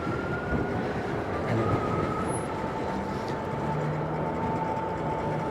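Riding an electric cargo bike: a steady thin whine over a rushing hiss of wind and tyre noise, with a low hum joining about three and a half seconds in.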